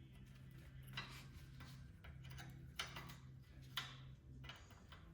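A few faint clicks and taps of hand tools on metal, three of them sharper than the rest, over a steady low hum.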